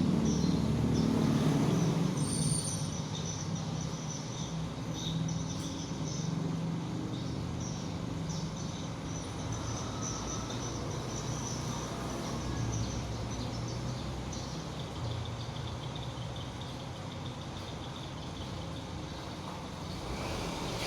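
A motor vehicle's engine running, louder for the first couple of seconds and then steadier and quieter.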